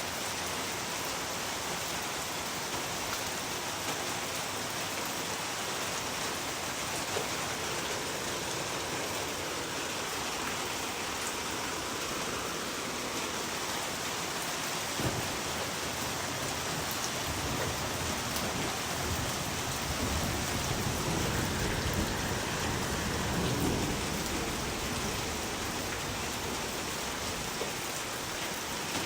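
Steady, dense rain falling on a surface. About two-thirds of the way through, a low rumble swells up, peaks and fades out over several seconds.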